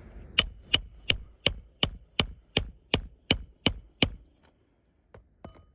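Hammer blows driving a roofing nail through a roof snake nailing tool under a shingle: eleven even strikes, about three a second, each with a bright metallic ring. Two light taps follow near the end.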